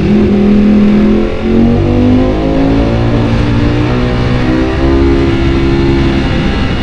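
Ducati Panigale V4 engine accelerating hard, its pitch climbing, with a brief dip about a second and a half in like a gear change, then pulling on at a fairly steady pitch.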